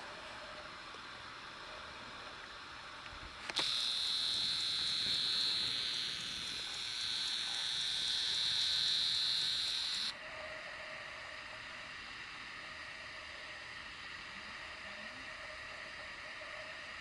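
Sony RX100 V's lens zoom motor whining through the camera's built-in microphone, a loud high-pitched whir that starts abruptly a few seconds in, lasts about six seconds and cuts off suddenly, over a steady faint hiss.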